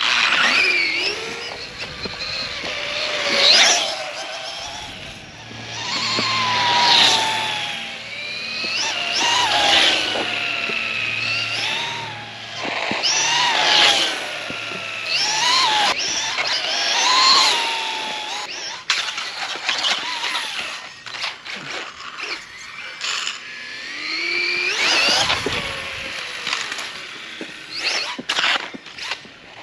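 Losi Promoto radio-controlled electric dirt bike's brushless motor and chain drive whining as it speeds up and slows again and again, the pitch rising and falling with each surge. About two-thirds through it turns quieter and choppier, with scattered clicks.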